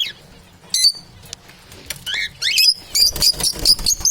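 Parrots calling with short, high, pitch-sliding chirps: one near the start, one just under a second in, then a rapid run of them from about two seconds in that grows loudest near the end.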